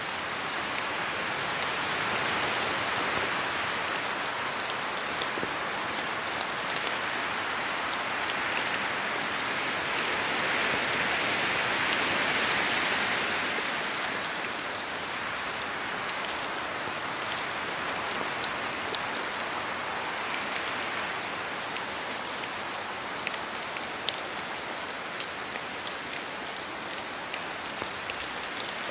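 Steady rain falling in a forest, with many separate drops ticking close by over the general rush. The rush swells and eases twice, about three seconds in and again around twelve seconds.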